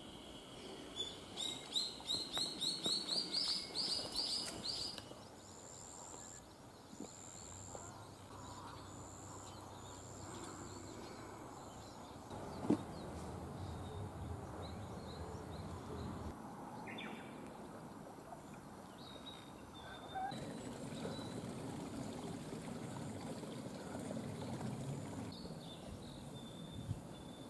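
Wild birds singing outdoors: a quick run of rising chirps, about eight a second, near the start, then long high thin whistled notes, over a soft steady outdoor background hiss. One sharp click about halfway through.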